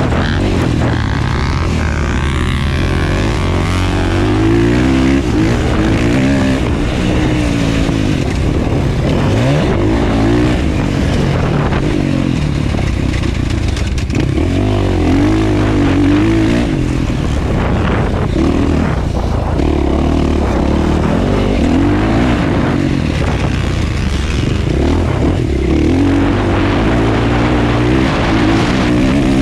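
Motocross bike engine revving hard and dropping back again and again, its pitch rising and falling continuously as it races round the track.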